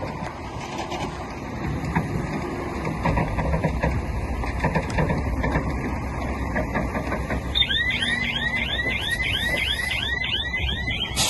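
Heavy diesel earthmoving machinery running, a steady low rumble with scattered metallic clanks. About two-thirds of the way in, a warbling alarm starts, repeating about three times a second for about three seconds.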